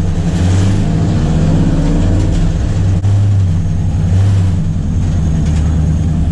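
Race-prepared Ford XF Falcon's 302 Windsor V8 running under way, heard from on board, with its note rising early on.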